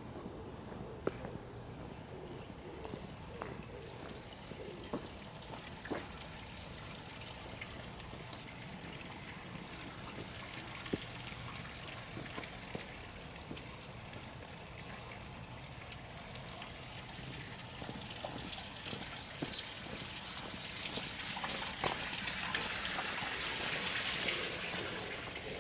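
Quiet outdoor residential street ambience, with a low steady hum and scattered faint clicks in the first half. About two-thirds in, a hiss builds, peaks near the end and then eases.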